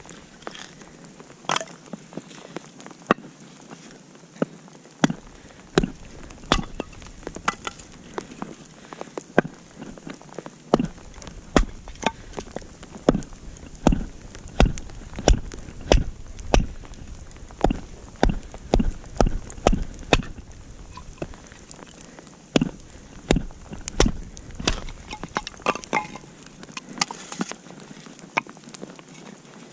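Campfire crackling over a low hiss, with sharp, irregular pops that come most thickly in the middle stretch.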